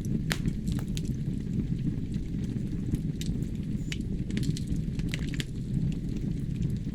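Wood logs burning in a fireplace: a steady low rumble of flame with scattered sharp crackles and pops, roughly one a second.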